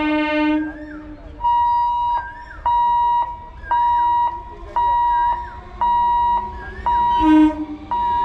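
Level-crossing warning hooter beeping steadily, about one beep a second, as the locomotives approach. An electric locomotive's horn blasts at the start and again briefly near the end.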